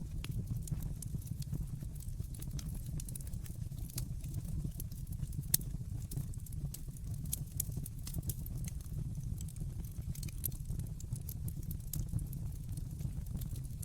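Wood fire crackling in a fireplace: irregular sharp pops and snaps over a steady low rumble of the flames, with one louder pop about five and a half seconds in.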